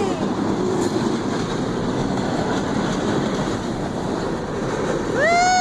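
A train passing close by, with a steady noise of its wheels running on the rails.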